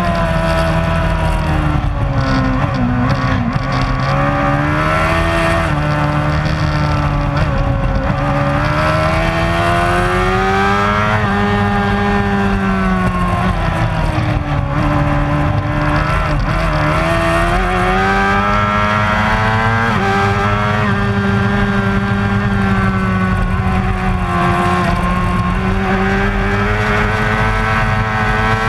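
Superbike racing motorcycle engine at high revs, its pitch climbing and falling again and again as it is run through the gears.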